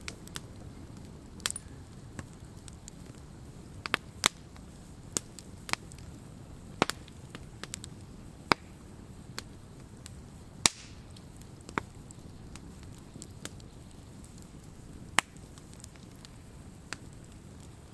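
Wood campfire burning: a low steady hiss of flames with sharp, irregular crackles and pops from the burning wood, a loud pop every second or two and fainter ticks between.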